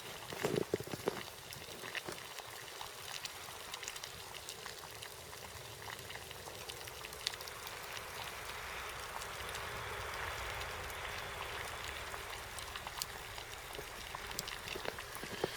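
Water boiling in a pot, a steady bubbling hiss that swells toward the middle and then eases, with scattered small clicks.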